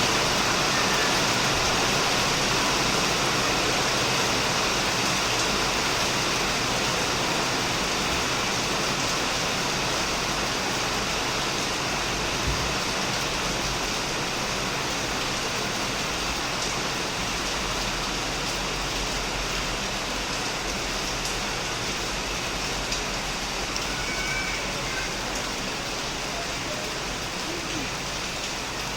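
Heavy rain falling on a shed roof and surrounding plants: a steady, dense hiss of drops.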